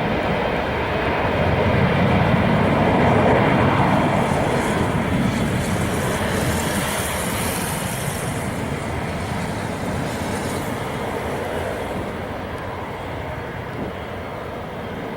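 Jet airliner engines at high power, a loud steady roar that swells about three seconds in, carries a high hiss for several seconds, then slowly fades.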